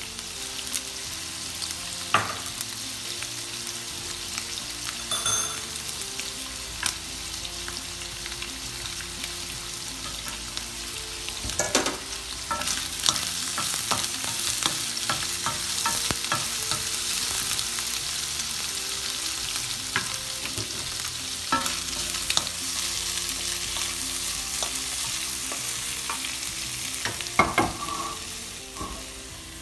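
Prawns and garlic shallow-frying in oil in a pan, sizzling steadily. Scattered knocks of a wooden spoon against the pan as the prawns are stirred and turned, bunched about twelve seconds in and again near the end.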